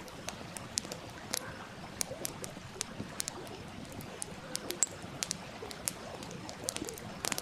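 Wood fire crackling with irregular sharp pops, one louder snap a little after the middle, over the steady babble and gurgle of a small stream.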